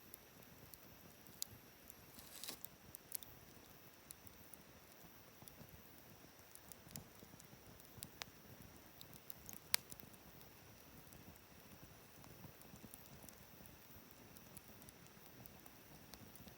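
Wood fire burning quietly, crackling faintly with a few scattered sharp pops, the sharpest about ten seconds in.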